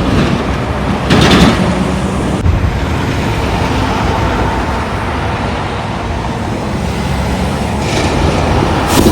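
Road traffic with a heavy truck's diesel engine running steadily, and a loud brief rush of noise about a second in and again near the end.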